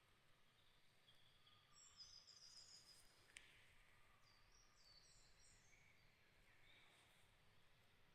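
Faint songbirds singing high, rapid trilled phrases, one about two seconds in and more around four to five seconds in, with a single sharp click just after three seconds.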